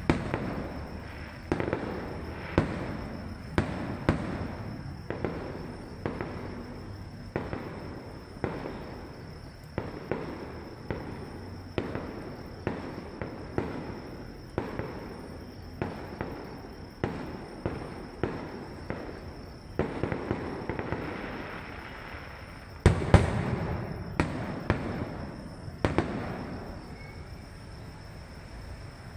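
Aerial fireworks going off in a steady, irregular string of sharp bangs, one every second or two, with a louder burst of several bangs close together about three-quarters of the way through.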